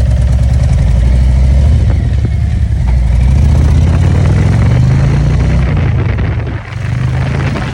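Motorcycle engine running loudly, its pitch rising as it is revved around the middle, then dropping back with a brief dip near the end.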